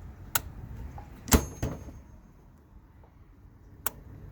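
Clicks and one loud metallic clunk from the dishwasher being handled, over the machine's running wash noise. The wash noise drops away about two seconds in.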